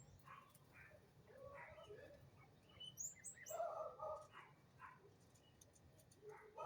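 Faint bird calls: a scattering of short chirps, with a brief high-pitched chirp about three seconds in and the loudest calls just after it.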